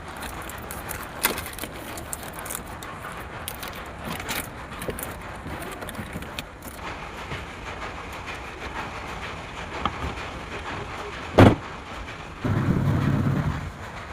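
Washing machine under test: a steady mechanical noise with scattered clicks, one loud knock about eleven seconds in, then the motor humming low for about a second and a half near the end.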